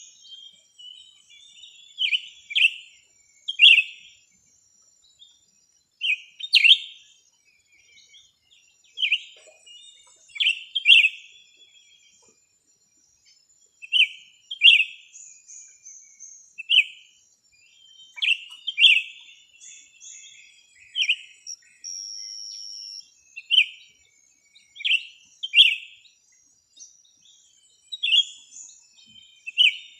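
Small birds chirping: short, sharp chirps repeated every second or two, often in pairs, with one longer held high note about two-thirds of the way through. A faint, steady high whine runs underneath.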